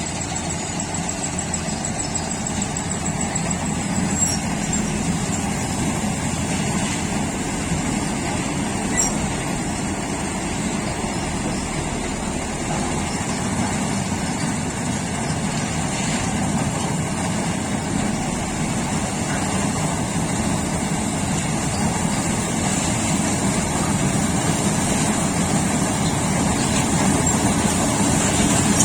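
Tractor engine and tractor-driven harvesting machinery running steadily during paddy harvesting.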